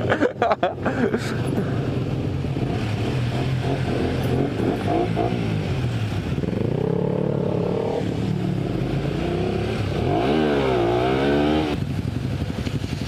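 Motorcycle engines revving up and down. There are quick stuttering blips in the first second, then several long swells in engine pitch, the last a sharp rise that cuts off abruptly near the end.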